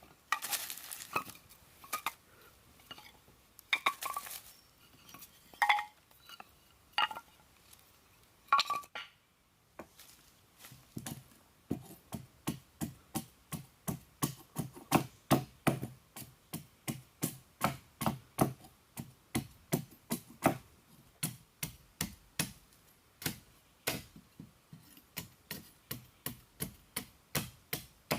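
Chopping with a blade: a few irregular knocks and clinks, then a steady run of chopping strokes from about ten seconds in, roughly two to three a second.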